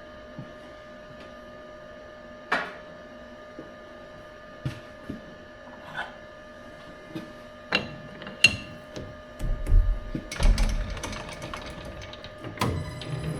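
Workshop machine humming steadily, with scattered sharp metallic clicks and knocks. The clicks thicken into a rapid clatter over the last few seconds.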